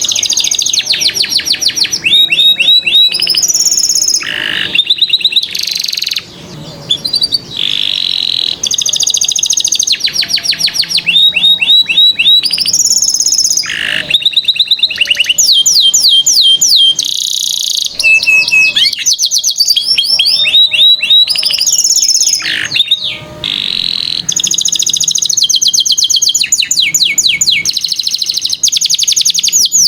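A domestic canary singing a long, unbroken song. It runs through one rapid trill or roll of repeated high notes after another, changing to a new phrase every second or two.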